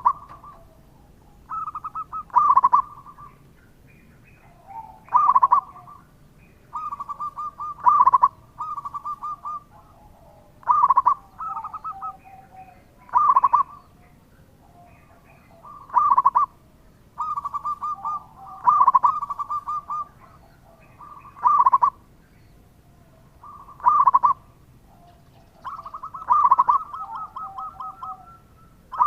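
Zebra dove (perkutut) song: a repeated phrase of quick stuttering coo notes with one louder note, coming about every two to three seconds, with fainter lower coos in between.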